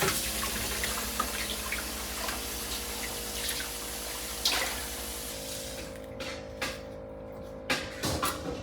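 Water running and trickling, fading out about five and a half seconds in, followed by a few light knocks.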